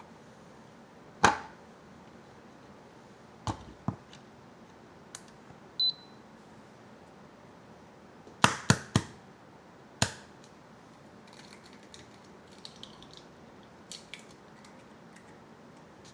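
Kitchen work: scattered sharp knocks and clinks, a quick cluster of three about eight and a half seconds in, with a short high beep just before six seconds and faint rustling near the end.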